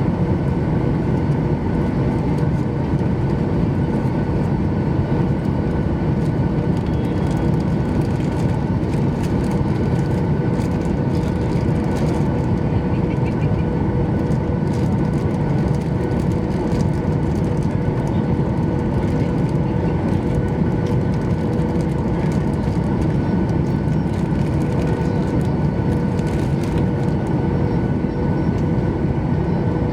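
Steady engine and airflow noise heard inside the cabin of a Boeing 737-800 with CFM International CFM56-7B engines, with a few steady hums over the noise.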